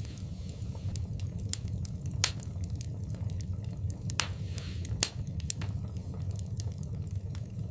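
Wood fire in a fireplace crackling, with frequent sharp pops, the loudest about two seconds in and near four and five seconds in, over a low steady rumble.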